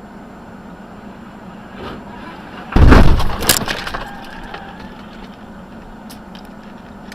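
Vehicle collision: over steady road noise, a sudden loud crash about three seconds in, with a crunch and breaking glass lasting about a second, then a few scattered clicks of debris.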